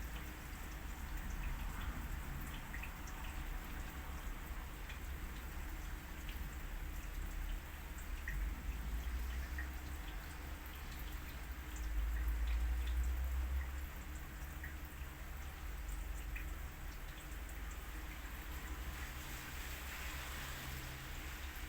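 Rain falling, with many scattered drips ticking over a steady low rumble that swells briefly about twelve seconds in.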